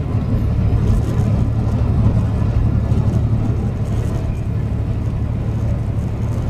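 Steady drone of a semi-truck's diesel engine with road and tyre noise, cruising at highway speed, heard from inside the cab.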